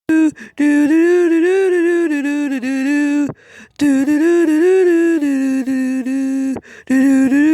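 A single voice humming a slow wordless tune in long held notes, with a few short breaks for breath.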